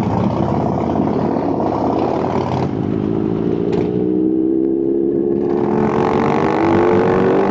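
Kawasaki H2 motorcycle's supercharged inline-four engine running. About three seconds in, the engine note starts climbing steadily in pitch as the bike accelerates.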